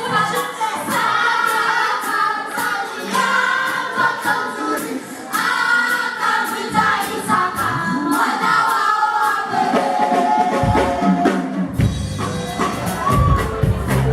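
Gospel music: a group of voices singing together over a steady beat, with a deep bass coming in about ten seconds in.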